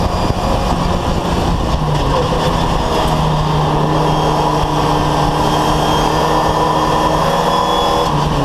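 VW Fun Cup race car's engine running hard at high, fairly steady revs, heard from inside the cockpit over wind and road noise. The pitch dips briefly about two seconds in and falls near the end as the revs drop.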